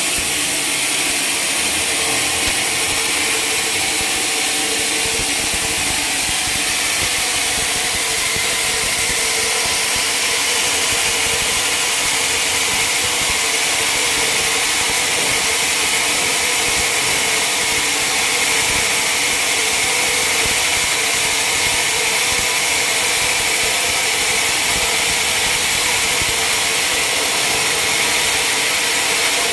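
A sawmill running steadily, with an unchanging high hiss and a steady hum.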